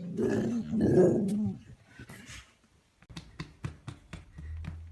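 A dog vocalising for about a second and a half, its pitch wavering up and down, followed a little later by a run of short, sharp clicks.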